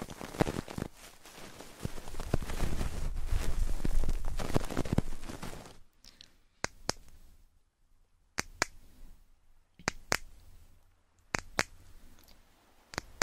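Fingers rubbing and scratching directly on an ASMR ear microphone, close and scratchy, for about the first half. Then sharp finger taps on the ear mic in close pairs, a pair about every second and a half, imitating a heartbeat.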